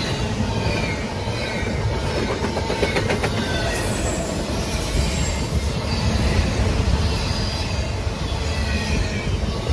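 A train rolling past close by: a steady rumble of wheels on rail with many short, high wheel squeals sliding in pitch, and a few sharp clicks about three seconds in.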